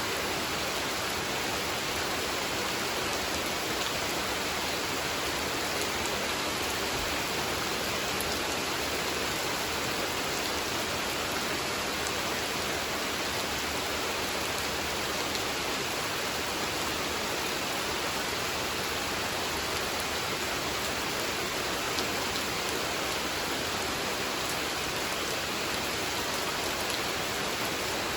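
Steady rain falling on a pond's surface: an even hiss with faint scattered drop ticks, without thunder.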